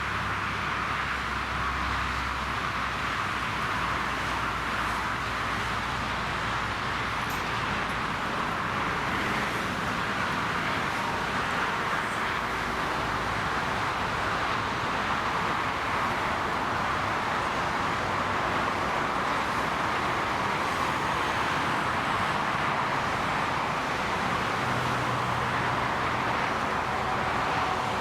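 Boeing 777F freighter's twin GE90 turbofans on final approach, a steady jet rush that swells slightly as the aircraft nears.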